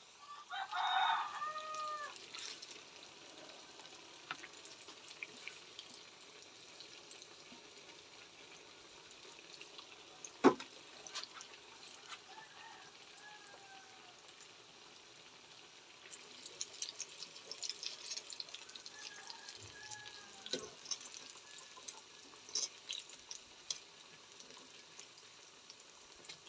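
A rooster crows about a second in, with fainter calls later on. A single sharp knock comes about ten seconds in, and light clicking and crackling follow in the second half.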